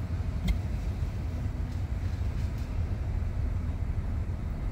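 Steady low rumble of a car's running engine, heard from inside the cabin, with a single small click about half a second in.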